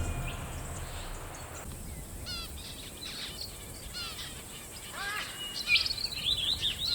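Small birds chirping: short, quick repeated notes, sparse at first and becoming busier near the end.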